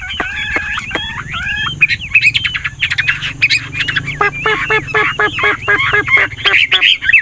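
Chinese hwamei singing a varied, warbling song of whistled phrases that keeps changing tune; about four seconds in it switches to a fast run of repeated notes, about five a second.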